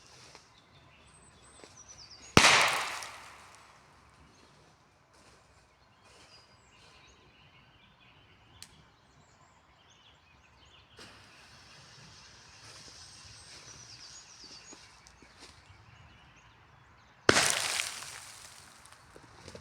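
Two firecracker (Böller) bangs, one a couple of seconds in and one near the end, each sharp and loud with an echoing tail of about a second. Birds sing faintly in between.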